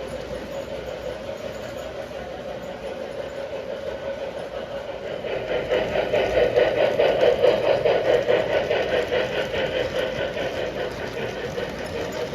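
Model toy train running on track: a steady electric motor hum with a regular clicking of wheels over the rail joints, growing louder as it passes close about six seconds in, then fading.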